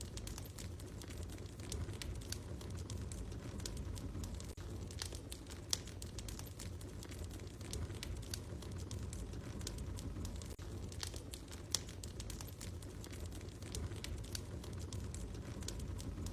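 Wood fire crackling in a fireplace: irregular sharp snaps and pops over a low steady rumble, with a couple of louder pops.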